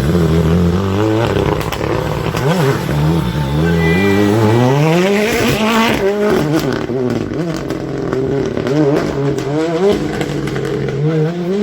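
Rally car engine revving hard, climbing in pitch as it accelerates, then dropping and rising again repeatedly through gear changes and lifts.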